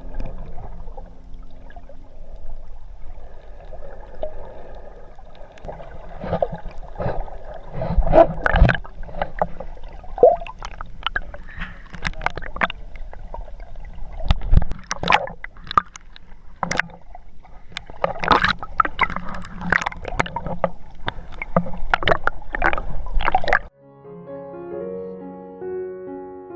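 Water splashing and slapping around a small boat, with many sharp, irregular knocks and splashes. Near the end the sound cuts off abruptly and soft piano music begins.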